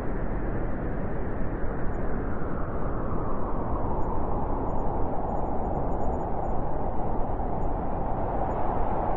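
Steady rush of blizzard wind, an even hiss without distinct gusts that settles into a higher, more hollow tone about three seconds in.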